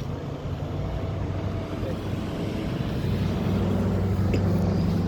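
Motor vehicle engine running close by, a steady low hum that grows louder about three seconds in.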